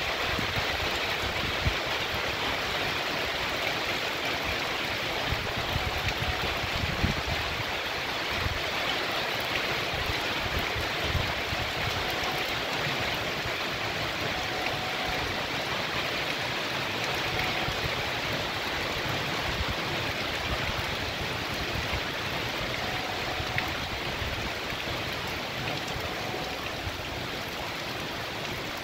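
Heavy rain pouring steadily onto a street and trees, with runoff water running along the pavement.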